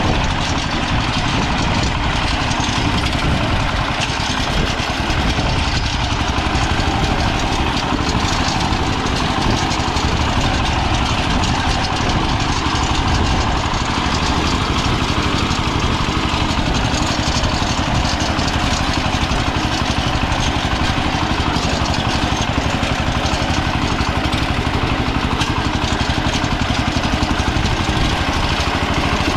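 Diesel engine of a Kentavr MB 1010DE-6 walk-behind tractor running steadily and loudly, with no change in speed.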